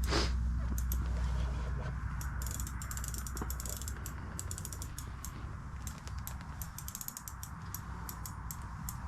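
Fishing reel clicking in quick, irregular runs while a hooked lake sturgeon pulls against the line, over a low steady hum.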